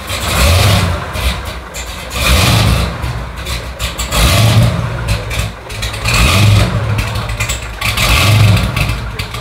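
American muscle car's engine being revved in short blips, five times about two seconds apart, over a steady idle.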